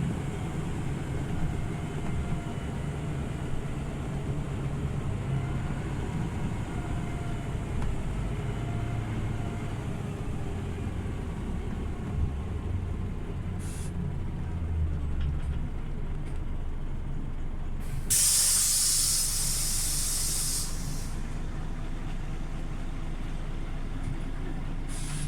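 Scania OmniLink city bus heard from on board: the engine runs with a low drone and a faint whine that rises slowly as the bus gathers speed. About three quarters of the way in comes a loud hiss of released compressed air from the air brakes, lasting about three seconds.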